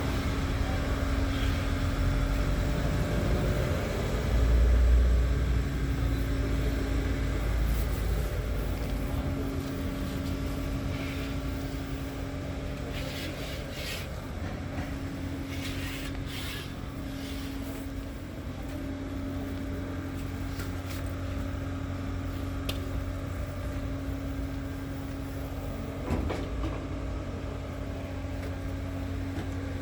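Scania R tractor unit's diesel engine idling steadily, with a brief swell of low rumble about five seconds in. A few short clicks or knocks come near the middle.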